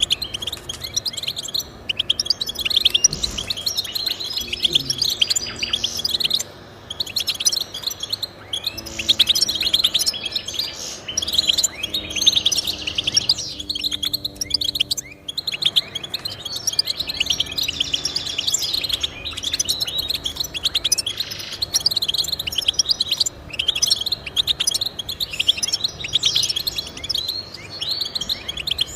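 Finch singing a long run of rapid twittering and trilling notes, with a brief break about halfway through.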